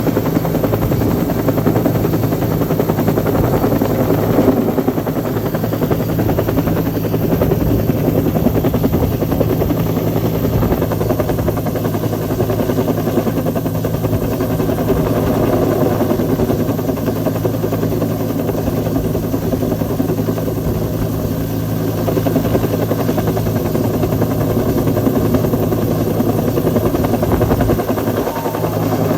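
Bell UH-1 "Huey" helicopter running steadily, its two-blade main rotor and turbine holding an even pitch.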